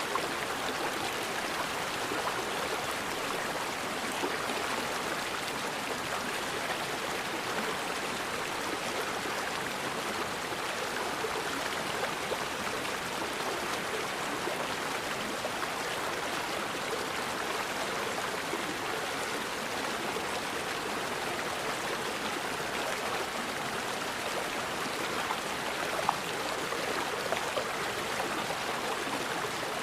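Forest river flowing: a steady, even rush of running water, with one brief louder tick near the end.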